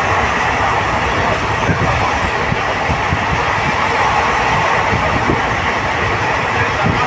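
Passenger train running along the line: a steady rumble and rattle with irregular low knocks of wheels on the rails.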